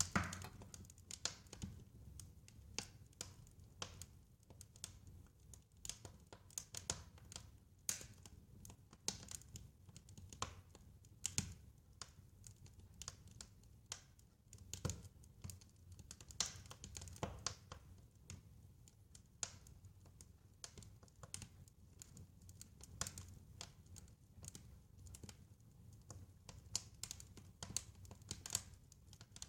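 Wood fire crackling, with irregular sharp pops and snaps, a few louder than the rest, over a soft low rumble of burning.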